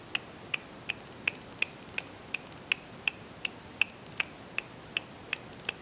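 2012 Honda CR-Z's hazard-light flasher clicking with the hazards on: sharp, evenly spaced clicks, close to three a second.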